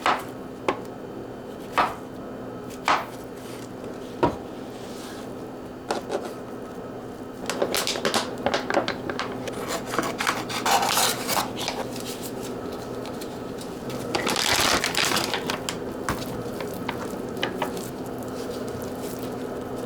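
Kitchen handling sounds: a few sharp knocks about a second apart, then stretches of clattering and rustling as dishes and utensils are handled, over a steady low hum.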